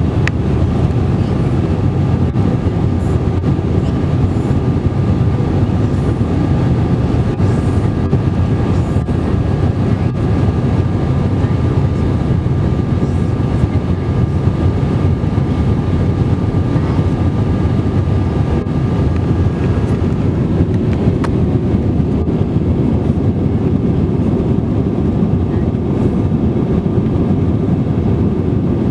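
Steady cabin noise of an Airbus A320-200 in flight: a low, even roar of engines and rushing air, with faint steady high tones that stop about twenty seconds in.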